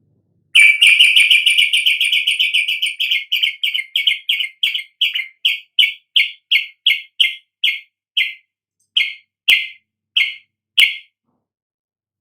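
A bird's call: a rapid series of sharp chipping notes that starts very fast, then slows and spaces out into single notes before stopping.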